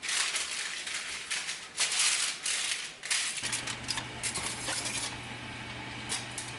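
Aluminium foil crinkling and rustling in irregular bursts as it is pressed over a baking dish. About three and a half seconds in this stops and a steady low hum sets in, with a few light clicks.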